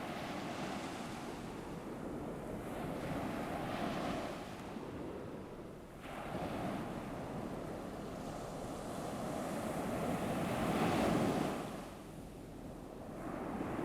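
Ocean surf: waves rolling in and washing back in slow swells. One swell comes a few seconds in, and a larger one near the end.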